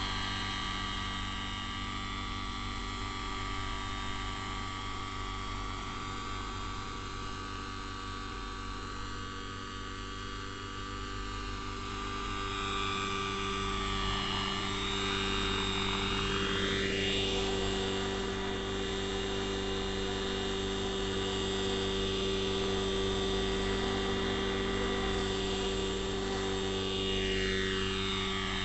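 Neo Caliber 50 radio-controlled helicopter flying, its carbureted glow-fuel engine and rotors running steadily. A sweeping, swishing change in tone passes through the sound about halfway through and again near the end, and the sound grows a little louder from midway.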